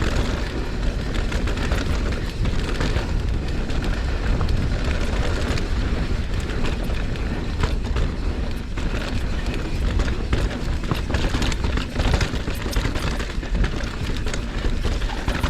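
Mountain bike riding fast down a rough dirt trail: a steady low wind rumble on the action camera's microphone, with many short rattles and knocks from the bike and tyres going over rocks.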